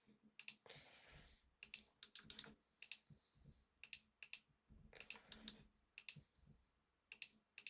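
Faint clicking of a computer keyboard and mouse, short sharp clicks in small clusters every second or so.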